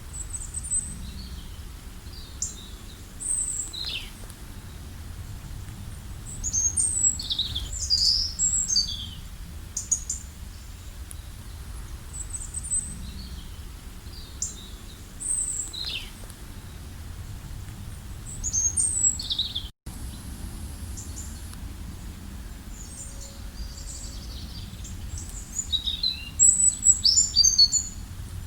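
Songbirds chirping and calling: short high notes and quick downward-sweeping whistles in scattered bouts, busiest a quarter of the way in and again near the end, over a low steady background rumble. The sound cuts out for an instant about two-thirds of the way through.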